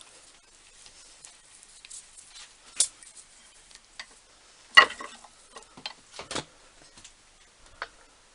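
Scattered light clicks and knocks of small tools and metal parts being handled, with one sharper knock about five seconds in.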